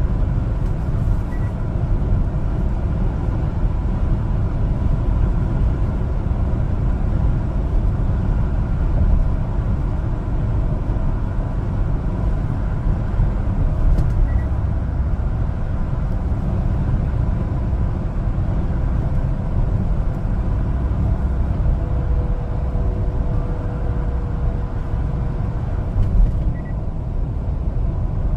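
Engine and road noise of a 1-ton LPG cargo truck on the move: a steady low rumble.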